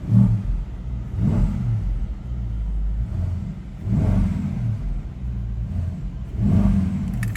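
Mercedes-AMG E63 S twin-turbo V8 idling and revved four times in quick blips, each rising and falling back to the low idle, with the sport exhaust switched on.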